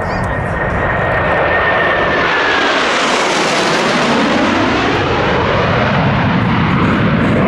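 Blue Angels F/A-18 Hornet jets flying past, their jet noise swelling to a peak about three and a half seconds in and staying loud, with a high whine that drops in pitch as they pass.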